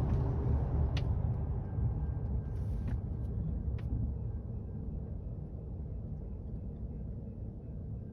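Low, steady vehicle rumble from inside a Ford F-150 pickup's cab, slowly fading, with a few faint clicks in the first four seconds.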